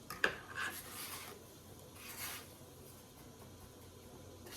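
A sharp click near the start, then a few brief gritty rustles: a chicken nugget being rubbed and patted in dry breadcrumbs while it is breaded.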